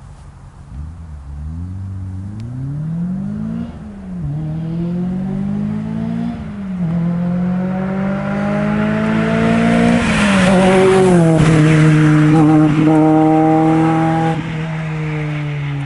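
Lotus Elise S1's tuned four-cylinder Rover K-series engine breathing through a Larini Club Sport exhaust, accelerating hard through the gears with two upshifts. It grows loudest about ten seconds in as the car passes, the pitch drops, and the note holds steady before fading near the end.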